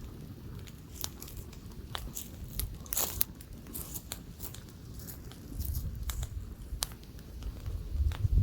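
Campfire crackling with scattered sharp pops, a quick cluster of them about three seconds in, over a low rumble of light wind on the microphone that grows stronger near the end.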